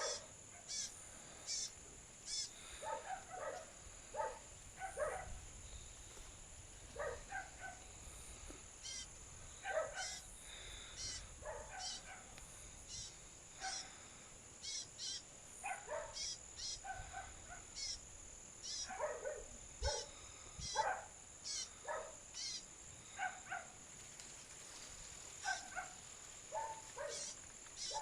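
A songbird calling again and again in short, separate notes, some in quick pairs and runs, over a steady high-pitched insect drone.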